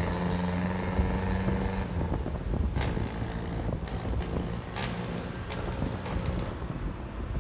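Honda ADV 150's single-cylinder scooter engine running steadily under way, with wind buffeting the microphone. About two seconds in, the engine note drops back and wind and road noise take over, with a few sharp knocks.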